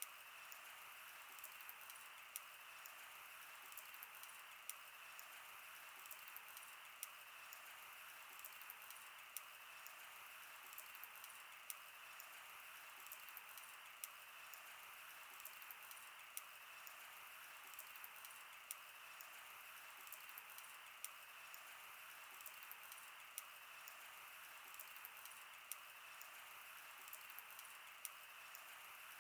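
Wood fire crackling, with frequent small irregular pops and snaps over a steady soft hiss.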